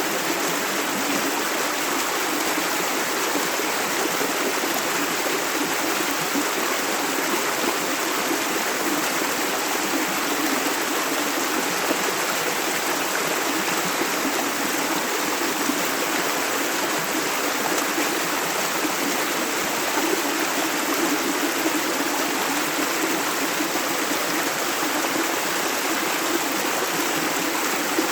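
Shallow river water running steadily over rocks, an even rushing and babbling with no breaks.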